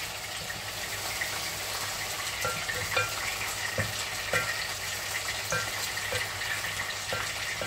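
Chopped vegetables sizzling in a stone-coated pot as a wooden spoon stirs them, with short knocks of the spoon against the pot every half second to a second.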